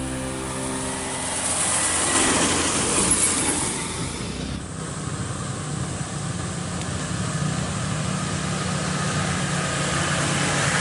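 Off-road 4x4 vehicle's engine running steadily, with a brief break about four and a half seconds in.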